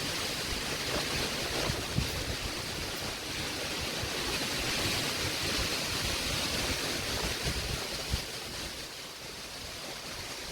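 Tropical-storm wind rushing steadily, with some gusts buffeting the microphone; it eases a little near the end.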